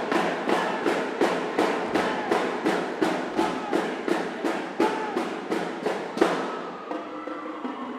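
Marching band playing: drums and horns on a steady beat of about three strikes a second. A loud hit comes about six seconds in, then the drumming stops and held chords ring on.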